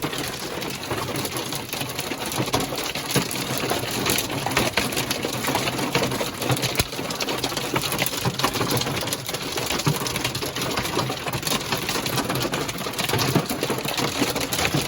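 Dense hail pelting a hard surface: a rapid, unbroken rattle of countless small impacts.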